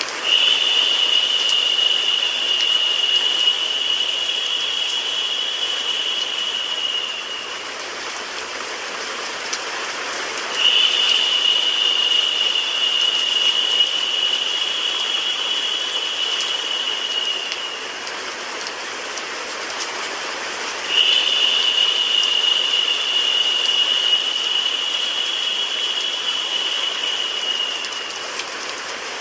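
Steady rain and white-noise hiss. A high, even buzz joins it three times, about ten seconds apart, each lasting about seven seconds and making the sound louder while it lasts.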